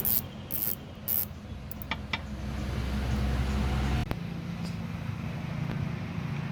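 Car's diesel engine running steadily, with three short sharp hisses in the first second or so. A deeper low rumble builds from about two seconds in and ends with a click about four seconds in, after which the engine note settles.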